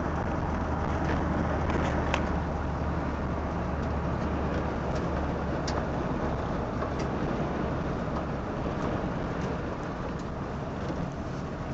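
1973 Pontiac Catalina's V8 running while the car drives along, a steady low engine hum with road noise, easing off slightly near the end.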